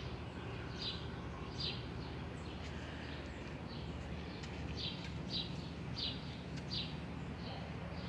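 A bird calling in a series of short, high chirps that slide downward, repeated about once a second in two runs, over a steady low background hum.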